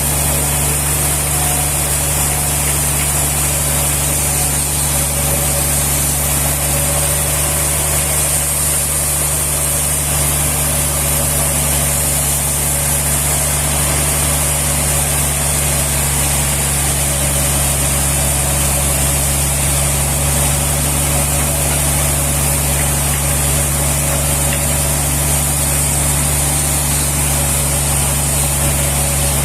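An engine running steadily at an even speed, a low hum with a hiss above it and no change throughout.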